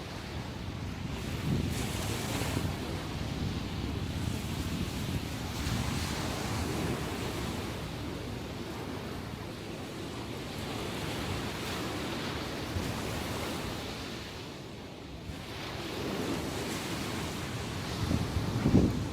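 Sea surf breaking and washing on the shore in the rough swell after a typhoon, rising and falling wave by wave, with wind on the microphone. The surf eases about three-quarters of the way through, then a louder wave breaks near the end.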